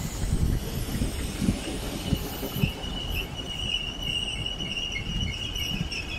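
Merseyrail electric multiple unit pulling out of the platform: a low rolling rumble of wheels on track with irregular knocks. A high, steady squeal comes in about two seconds in and holds.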